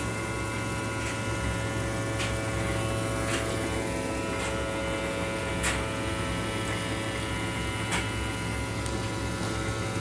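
Vacuum cleaner running with a steady motor hum and whine, with a few light clicks now and then.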